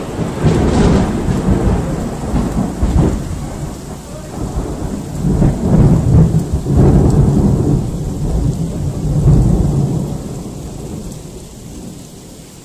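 Close thunder rumbling in several loud rolling surges after a sudden crack, fading away near the end, with rain falling.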